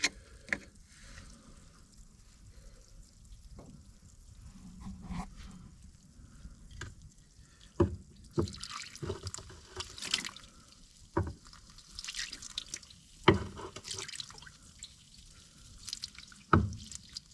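Baking soda and water mix splashing and dripping over a corroded tractor battery in short spells, with several sharp clicks and knocks from a screwdriver picking at the terminals.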